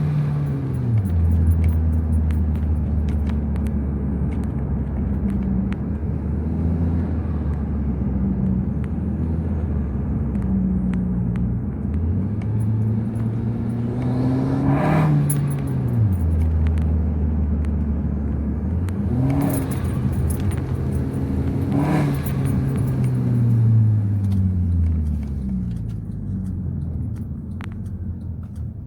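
2012 Acura RDX's 2.3-litre turbocharged four-cylinder, with the rear muffler deleted and a Magnaflow glasspack resonator, pulling through the gears: the engine note climbs under acceleration and drops at each upshift, several times over. A short hiss comes at three of the shifts, from the adjustable blow-off valve venting. Near the end the engine settles lower and fades.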